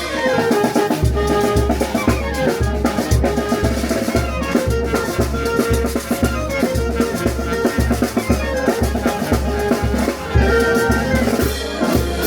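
Peruvian brass band (banda) music: held wind-instrument notes over a bass drum beating about twice a second, with snare and cymbal strokes.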